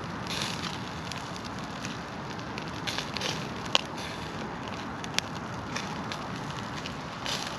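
Campfire burning with a steady crackle and scattered sharp pops, the loudest a little under four seconds in and another about five seconds in.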